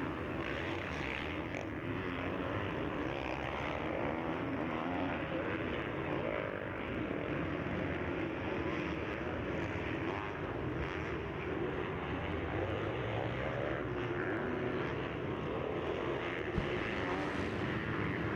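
Motocross bike engines racing on the track, a steady drone that rises and falls in pitch as the riders rev through the gears.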